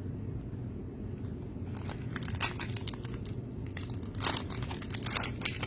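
Plastic trading-card pack wrapper crinkling and tearing as it is handled, in quick crackly clusters starting about a second and a half in, over a steady low hum.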